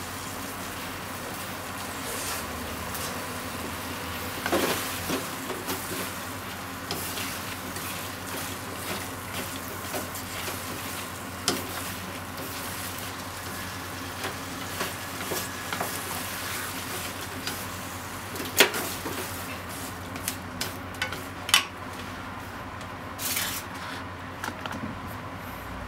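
Bean sprouts and shimeji mushrooms sizzling steadily in a frying pan as they are stirred with chopsticks, which click against the pan now and then.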